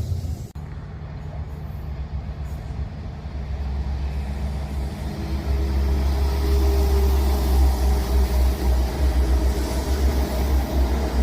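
Train passing, its low rumble starting suddenly about half a second in, building over several seconds and then holding loud.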